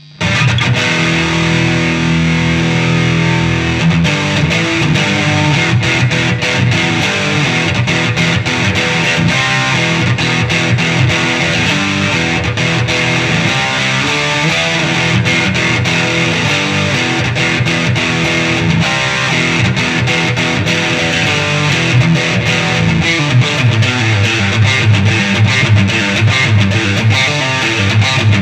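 Electric guitar, a 1995 Fender Strat Plus, played through a Fractal Audio FX8 MK2 effects unit with distortion. It comes in suddenly, playing a busy riff of picked notes, and moves to lower, heavier notes in the last few seconds.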